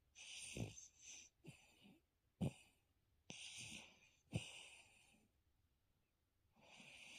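A sleeping dog snoring: a run of hissy, wheezy breaths with short low snorts among them, pausing for about a second and a half before the breathing starts again near the end.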